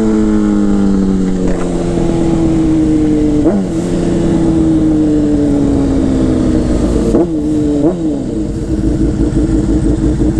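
Motorcycle engine slowing down, its pitch falling gradually, with quick throttle blips about three and a half seconds in and twice more between seven and eight seconds in. Near the end it settles to a steady, pulsing idle.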